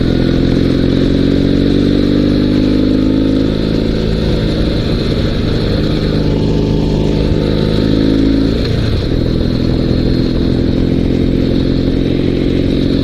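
Dnepr 16 sidecar motorcycle's flat-twin engine running under way. Its pitch climbs slowly, then drops about four seconds in and again near nine seconds as it shifts up through the gears.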